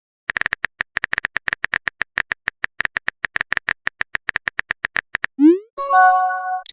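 Phone-chat typing sound effect: rapid keyboard clicks, about ten a second, for about five seconds. Near the end come a short rising pop and a chiming message alert, the sound of a chat message arriving.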